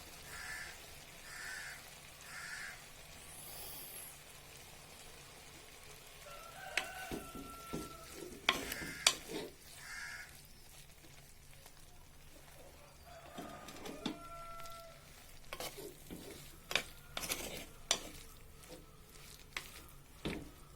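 A spoon stirring flattened rice (aval) in a pan, with scattered sharp taps and knocks of the spoon against the pan over a faint sizzle.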